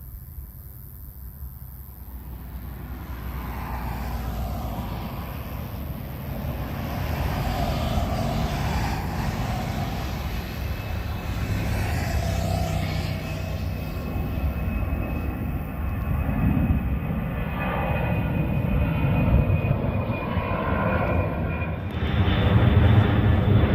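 Airliner's engines passing near the runway end, the noise building steadily louder, with a steady high whine in the later part and a further jump in loudness near the end.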